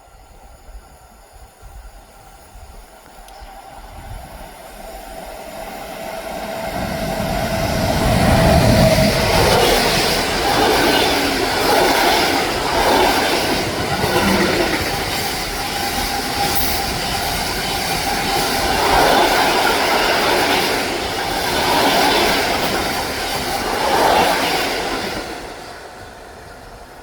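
A train approaching and passing through a station at speed, growing steadily louder, then running past loud with repeated swells of rolling wheel and rail noise and some clickety-clack, before dropping away near the end.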